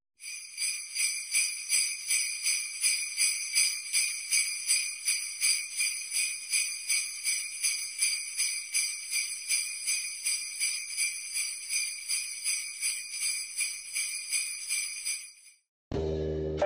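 Jingle bells shaken in a steady rhythm, about two and a half shakes a second, fading out near the end. Piano music starts just before the end.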